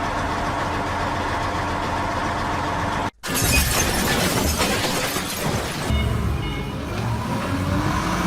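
Car driving, heard through a dashcam: a steady drone of engine and road noise. About three seconds in, the sound cuts to louder, rougher vehicle noise with crunching and shattering, like a collision.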